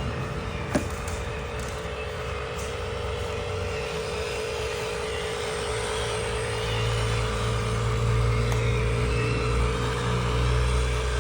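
Radio-controlled dump truck running, with a steady wavering whine and a single click just under a second in. A low rumble grows louder from about halfway through.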